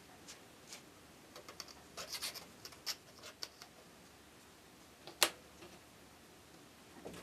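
Light scratching and small ticks of hand tools working on miniature craft pieces, in scattered short strokes, with one sharper click about five seconds in.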